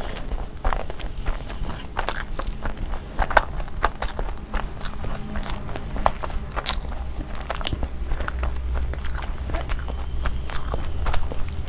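Close-miked eating of a tortilla wrap: a bite, then chewing, heard as many irregular short mouth clicks.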